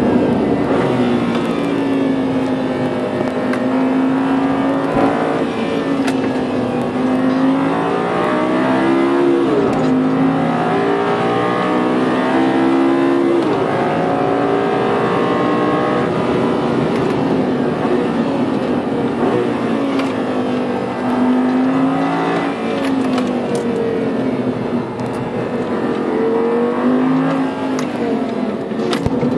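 Audi R8 GT's V10 engine under hard track driving, heard from inside the cabin: the engine note climbs as it accelerates, then drops sharply at each gear change, again and again.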